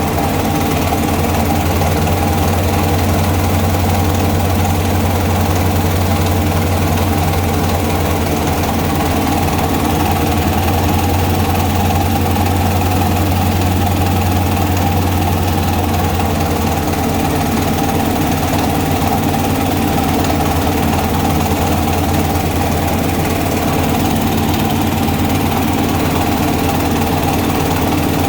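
Rice-bran grinding mill driven by a small diesel engine, running steadily at an even speed with a constant low drone.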